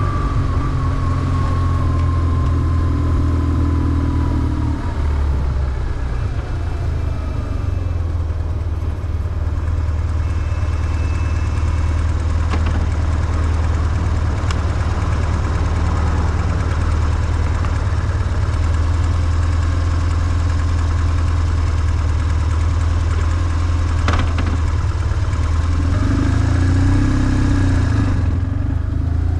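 BMW R1150GS boxer-twin engine running as the motorcycle is ridden, its note falling in the first few seconds as it eases off and rising again near the end.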